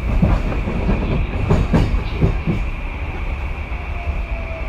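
Tokyu 2020 series electric train running, heard from inside the car: the wheels clack several times over rail joints and points in the first couple of seconds, under a steady high whine. Near the end a faint motor tone falls in pitch as the train slows for its stop.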